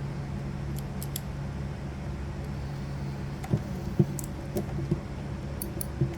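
Small metal parts of a pinball score reel clinking and tapping as they are handled and fitted together, with a few sharper knocks in the second half. A steady low hum runs underneath.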